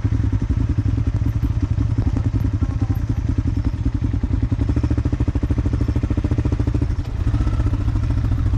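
Motorcycle engine running steadily, heard close up as a rapid, even low throb, easing briefly about seven seconds in.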